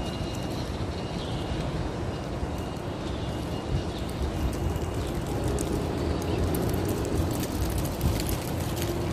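Steady outdoor background rumble with wind noise on the microphone, and a faint thin high tone that comes and goes in the first half.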